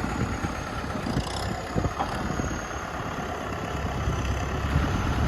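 Tractor engine running steadily under a load of rice, with a couple of knocks about two seconds in and the engine growing a little louder near the end.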